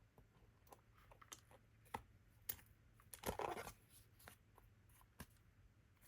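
Paper-craft handling: scattered light clicks and taps of tools and cardstock, with a brief paper rustle about three seconds in.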